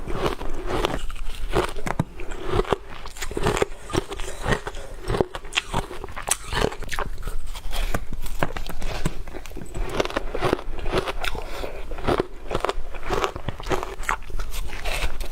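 Ice being bitten and chewed close to the microphone: a dense, irregular run of sharp crunches and crackles.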